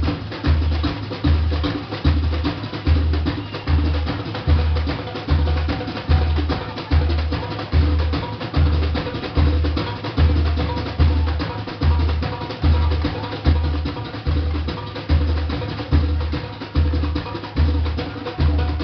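Samba bateria playing full out: surdo bass drums pounding an even beat about every three-quarters of a second, under a dense layer of snare drums and smaller percussion.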